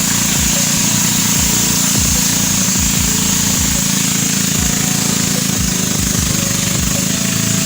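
Waterfall rushing steadily, with a constant high-pitched hiss above it and uneven low rumbling underneath.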